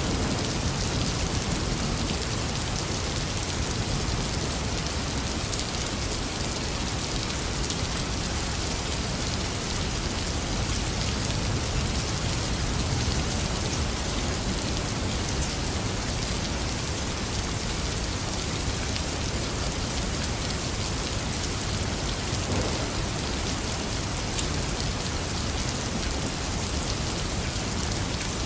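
Heavy rain falling steadily, with the tail of a low thunder rumble fading out in the first second.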